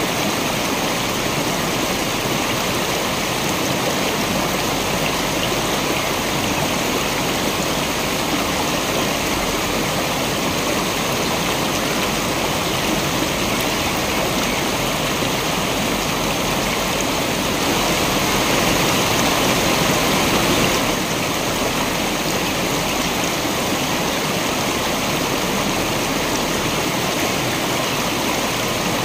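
Waterfall rushing steadily: an even, unbroken roar of falling and flowing water that swells slightly for a few seconds past the middle.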